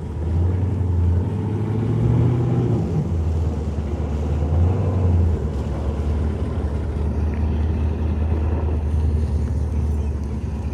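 Car engine running with a low, steady rumble; it revs up a little about two seconds in, then settles back.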